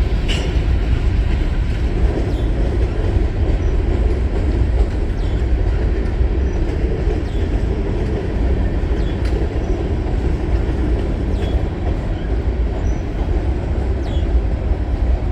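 Freight train cars rolling past with a steady low rumble, with light clicks from the wheels about every two seconds.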